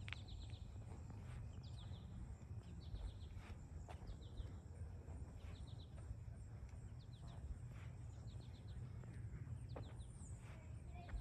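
Small birds chirping in short quick runs of three to five high notes, repeated every second or so, over a faint steady low rumble.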